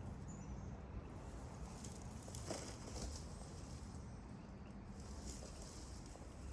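Faint rustling and crackling in dry plant stalks, with scattered small snaps.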